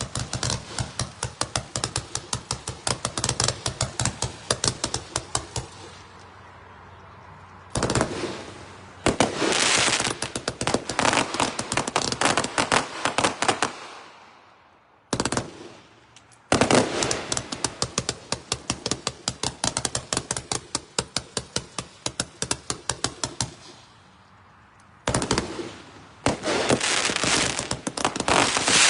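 Consumer firework cake (Crown Jewel, a 500-gram economy cake) firing: rapid strings of sharp reports and crackle in several barrages, each a few seconds long, with short pauses between them.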